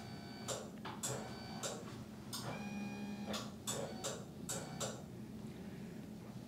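Irregular soft clicks and rustles of a therapist's hands pressing and rubbing a person's body on a treatment table during manual-therapy muscle release, with a faint held tone twice.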